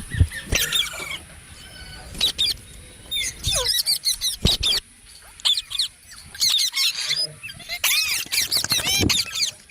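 Several parrots chirping and squeaking in quick, high-pitched rising and falling calls, busiest in the second half. There are a few low thumps among them.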